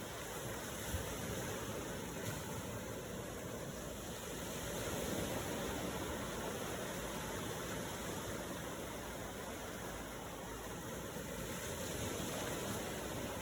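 Ocean waves making a steady rushing wash, swelling gently about five seconds in and again near the end.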